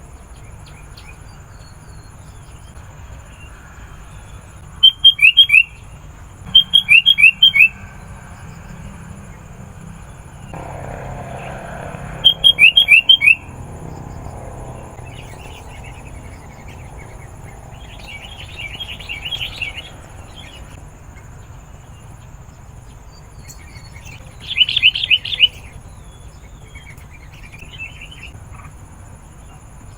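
Sooty-headed bulbul calling: loud short phrases of three or four quick falling notes, given four times, with softer chattering in between.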